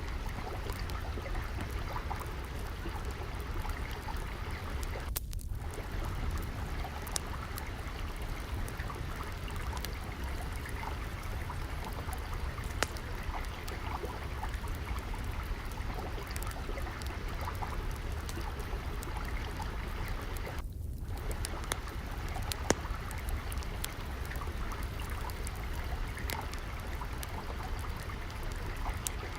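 Steady trickling, flowing water, with scattered sharp crackles and pops from a wood fire.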